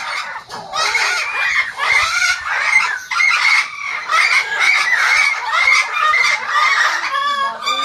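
A crowd of birds calling at once: a dense, unbroken chatter of short, noisy calls, with one loud drawn-out squawk near the end.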